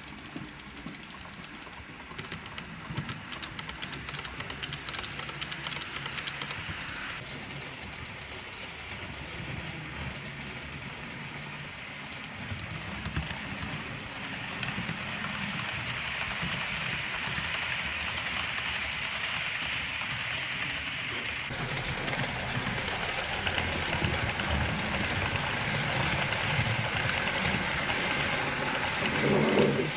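Model diesel locomotive running along the layout track, its wheels rattling over the rails and growing louder as it approaches. A brief louder note sounds near the end.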